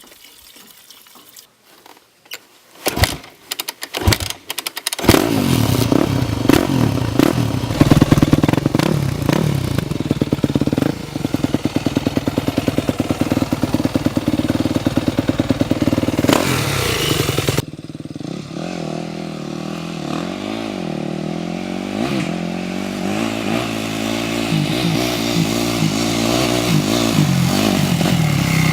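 A few sharp clicks and knocks, then a Yamaha YZ250 dirt bike engine running and revving up and down. About 18 seconds in, the sound cuts abruptly to the engine revving in repeated rising and falling sweeps.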